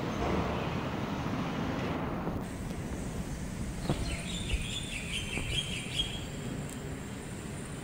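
A small bird twittering in quick chirps for about two seconds, starting about four seconds in, over a steady background rumble, with a few short knocks around the same time.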